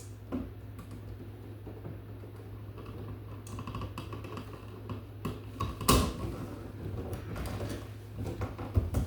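Scattered light clicks and knocks, with one louder knock about six seconds in and two more near the end, over a steady low hum.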